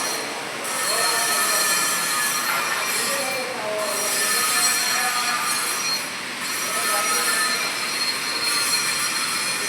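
Electric arc welding on a pipe: a steady, harsh crackling hiss, dipping briefly a few times.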